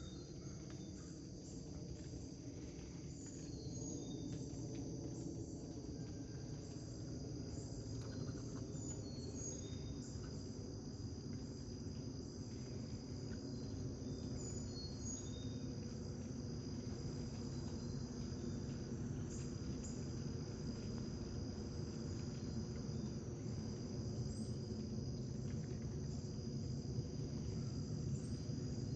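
Steady, high-pitched chorus of insects, likely crickets, with a few short bird chirps over it and a low steady rumble underneath that grows louder about four seconds in.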